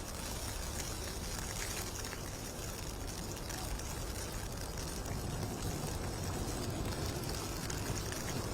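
Steady city street noise: traffic with tyres hissing on wet, snowy roads.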